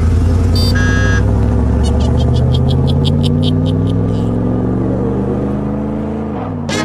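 A cartoon vehicle engine sound effect revving up, its pitch climbing slowly and steadily, then falling sharply near the end. A short high tone sounds about a second in, and a run of evenly spaced ticks, about three a second, comes in the middle.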